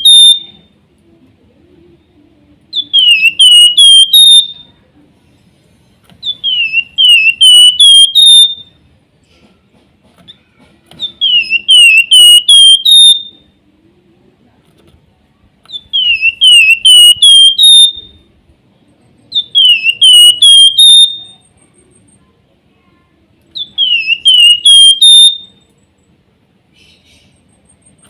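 Javan fulvetta (flamboyan, wergan jawa) singing its whistled song. Short phrases of four or five clear notes, each dipping and rising back, repeat about every four seconds with brief gaps between.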